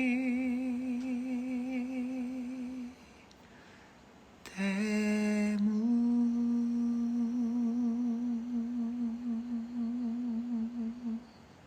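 A man's voice holding two long sung notes with vibrato, unaccompanied. The first lasts about three seconds. After a short breath, the second comes in about a second and a half later, slides up slightly, and is held for over six seconds.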